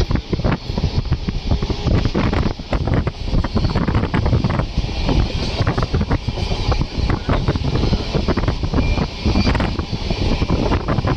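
Wind buffeting the microphone at the open window of a fast-moving express train, over the steady rumble of the train running on the rails.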